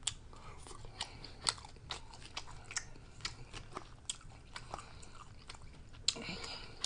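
Close-miked chewing of a Subway protein bowl of lettuce, tomato and chicken: irregular wet mouth clicks and soft crunches, several a second.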